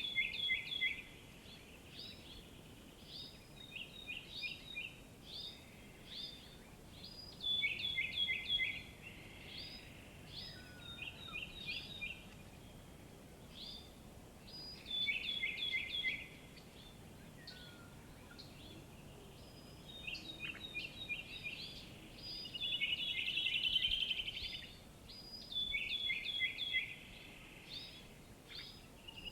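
Birds singing: phrases of quick, high, downward chirps repeated every few seconds over a faint steady background hiss, with a longer rapid trill about 23 seconds in.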